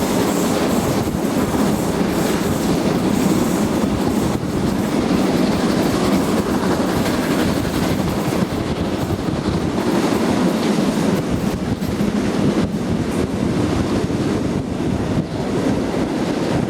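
Train running along the track, heard on board: a steady rolling noise with the wheels clicking over rail joints.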